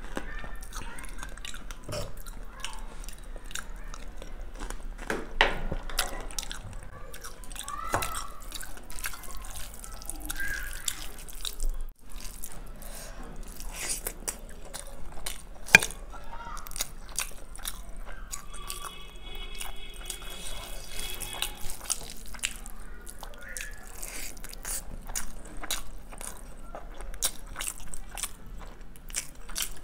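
Close-miked eating sounds: chewing biryani rice with wet lip smacks and many small, sharp mouth clicks, one click sharper than the rest a little past halfway.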